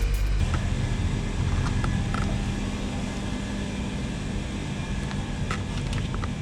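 Engine running at a steady speed, a constant mechanical hum, with a few faint clicks.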